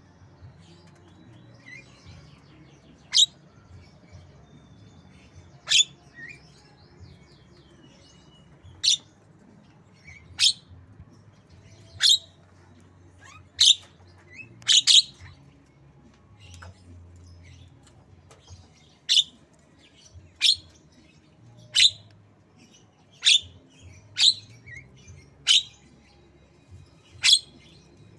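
Javan myna giving short, sharp, loud calls, one every second or two, with faint chatter between them: calls from its mimicry of the white-rumped shama.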